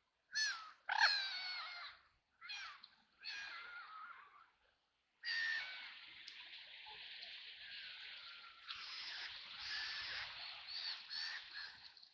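Ducks quacking: four short, harsh quacks in the first few seconds, then from about five seconds in a longer stretch of overlapping calls over a steady hiss, which cuts off suddenly at the end.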